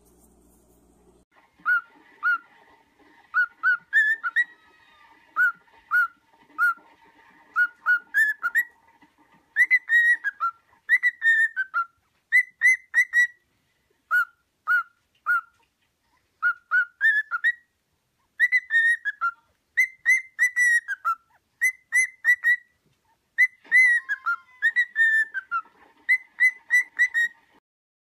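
A parrot whistling a long run of short, clear notes in quick groups, some rising and some falling, like a whistled tune.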